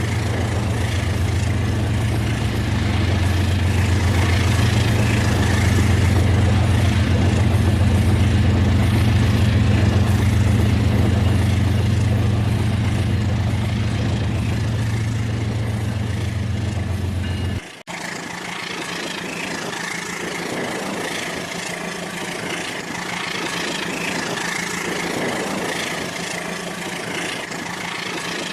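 Rail King remote-control toy train running on its track: a steady motor hum with a strong low drone. The drone cuts off suddenly about 18 seconds in, leaving a lighter running noise.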